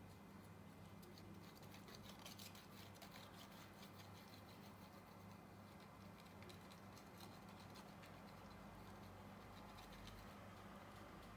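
Faint, irregular scratching and ticking from contact adhesive being spread onto an iPhone's rear housing, thickest in the first few seconds, over a steady low electrical hum.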